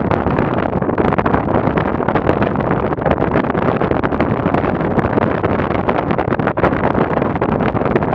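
Strong gusty wind buffeting the microphone: a loud, dense rush that swells and dips irregularly, with no engine tone in it.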